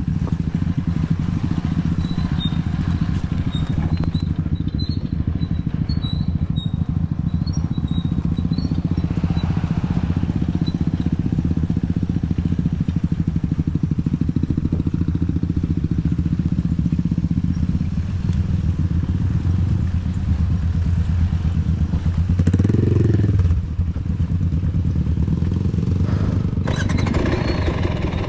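Dirt bike engine running steadily at low revs, with one short rev up and back down about three-quarters of the way through.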